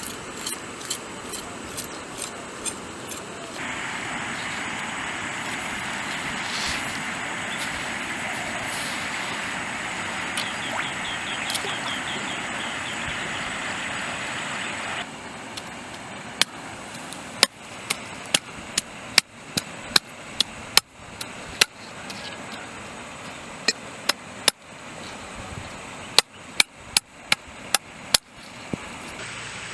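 A steady rushing noise that grows louder a few seconds in and drops back abruptly about halfway, followed by a run of sharp knocks, one or two a second, through the second half.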